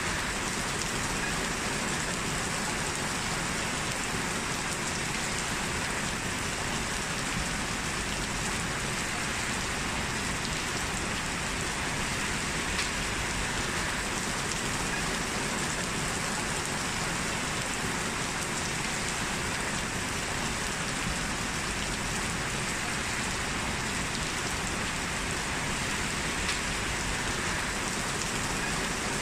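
Steady rain falling: an even, unbroken hiss with no letup.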